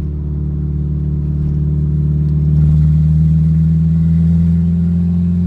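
Car engine running with a steady low drone that rises slightly in pitch and level about halfway through.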